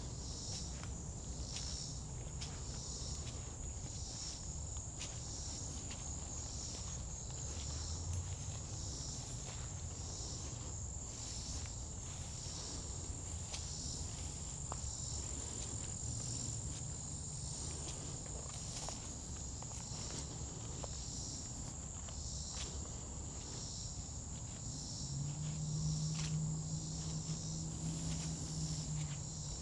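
A steady, high-pitched chorus of insects trilling, with a regular pulsing, over footsteps on a forest path about once a second. A low steady hum comes in about 25 seconds in and fades near the end.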